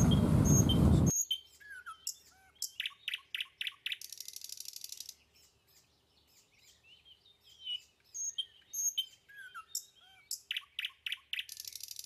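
Songbirds calling: short downward chirps and quick notes, then a fast, high buzzy trill. The same run of calls repeats about six seconds later. It opens with a second of vehicle and wind rumble that cuts off suddenly.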